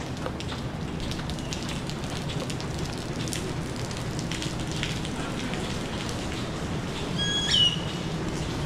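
Steady rain with the ticking patter of drops, over a low rumble. About seven and a half seconds in comes a single short, high whistling tone that drops in pitch at its end.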